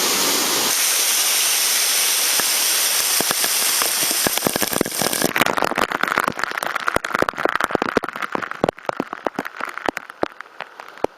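Steady rush of falling water, giving way about halfway through to a dense crackle of sharp pops and drips as the rush fades.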